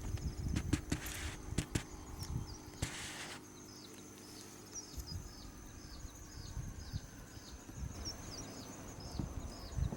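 Outdoor bush ambience: a bird repeats a short, high, falling call about twice a second over a steady high thin whine. Low wind rumble and a few dull knocks sit underneath, and there are two brief rustling hisses in the first three seconds.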